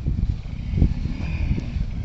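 Motorcycle running on the move, a low rumble with wind buffeting the microphone in irregular thumps.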